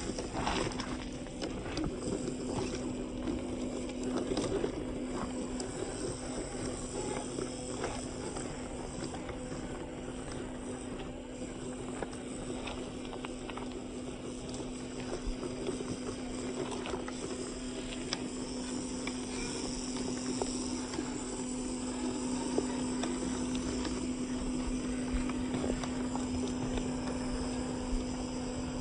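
Radio-controlled off-road car running over rocky ground: a steady, unchanging hum with scattered clicks and knocks over a continuous rough noise.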